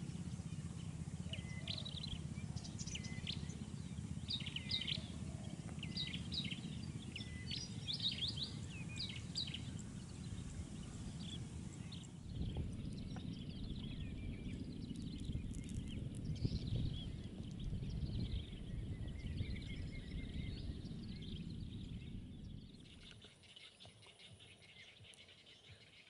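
Wild birds chirping and calling in quick, short notes over a steady low rumble. The calls are densest in the first twelve seconds and thin out after that, and the rumble drops away near the end.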